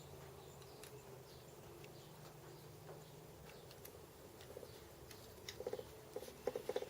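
Faint steady hum with several short bursts of fast, small clicking in the second half, loudest near the end.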